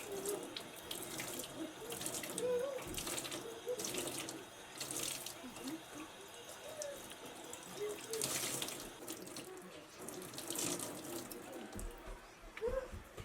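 Kitchen tap running into a sink, with splashing that swells in repeated surges as things are rinsed under the stream.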